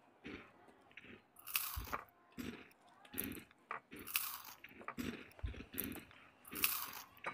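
Crunchy food being bitten and chewed, with irregular crunches about twice a second.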